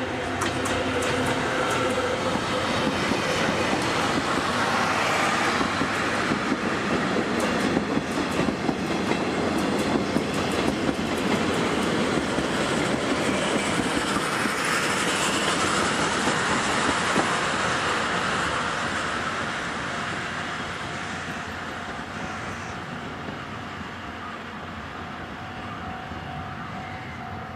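A steam-hauled passenger train (C58 363 with its coaches) passing close by, its wheels clacking over the rail joints. The sound builds, stays loud for about fifteen seconds, then fades as the train draws away.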